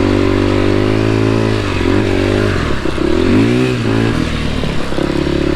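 Dirt bike engine running under way on a trail, its revs dropping and picking back up twice, about two seconds and three and a half seconds in.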